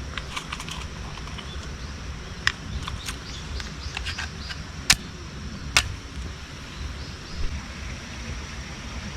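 Scattered sharp clicks and snaps, three louder than the rest, over a steady low rumble and a faint high hiss.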